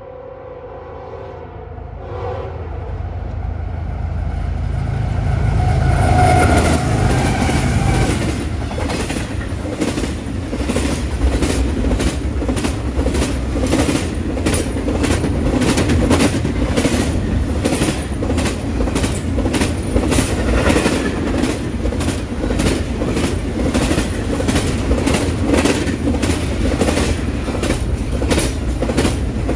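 Union Pacific freight train passing: a short blast of the locomotive's horn at the start, then the diesel locomotives grow louder and rumble by. They are followed by a long string of freight cars rolling past, their wheels clicking steadily over the rail joints.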